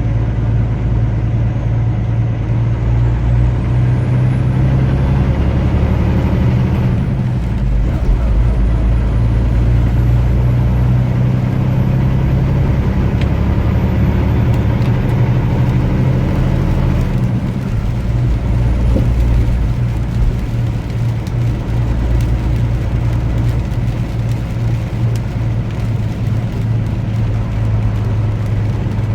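A vehicle's engine running steadily with road noise, heard from inside the cab in slow traffic; the low engine hum shifts a couple of times.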